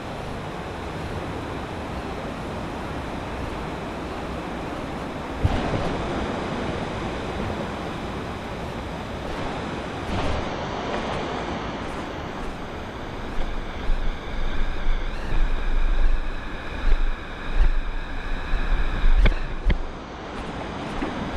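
Rushing river water, a steady even rush. From about halfway through, irregular low buffeting on the microphone comes in over it.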